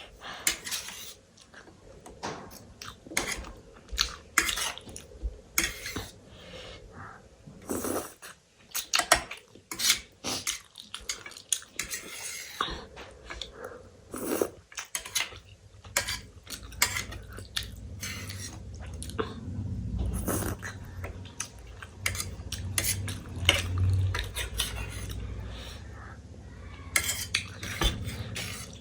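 Cutlery clinking and scraping against a plate in irregular, scattered clicks while eating. A low rumble joins in over the second half.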